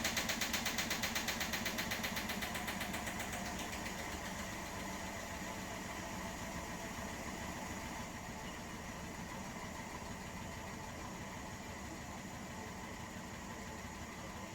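Washing machine drum spinning with a fast rhythmic knock, about five beats a second, that fades out over the first few seconds. It leaves a steady hum that slowly winds down.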